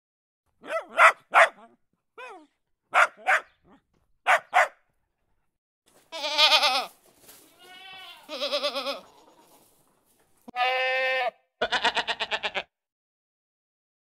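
Goat bleating four times, the calls quavering and the last one stuttering in rapid pulses. It follows a string of short paired animal calls in the first few seconds.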